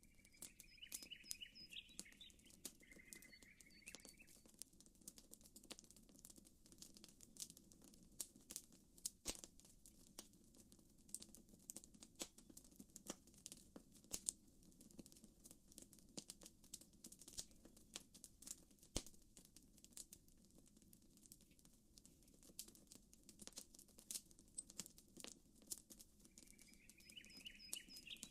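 Faint campfire crackling: irregular sharp pops and snaps from burning wood over a low steady background. A bird gives a short chirping trill twice in the first few seconds and once more near the end.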